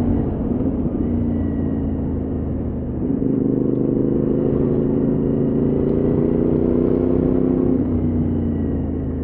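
CFMoto 450MT adventure motorcycle's parallel-twin engine running at steady riding revs, heard from the bike. The engine note rises slightly about three seconds in and eases off again near the end.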